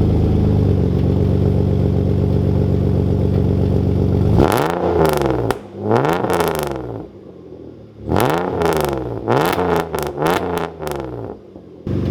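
BMW E36 engine through a straight-through exhaust with the resonator and primary muffler deleted, idling steadily and then revved in a series of quick blips, each pitch climbing and falling back, before settling to idle again.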